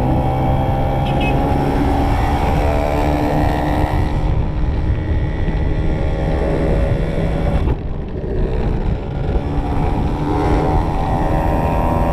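Two-stroke motorcycle engines running at speed, their pitch climbing slowly as the bike accelerates. The throttle is briefly eased just under eight seconds in, then the engine pulls up again.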